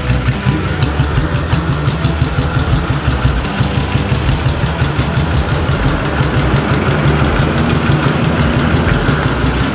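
1954 BSA B31's 350 cc single-cylinder four-stroke engine idling steadily.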